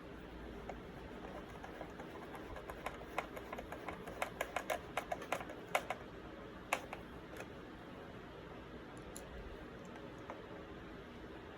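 Faint, irregular light clicks and taps from a hand-held Phillips screwdriver driving screws into a plastic ice caddy and the plastic parts being handled, bunched together from about three to seven and a half seconds in.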